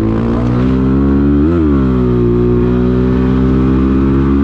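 Dirt bike engine running at a steady pace, with one brief rev up and back down about one and a half seconds in.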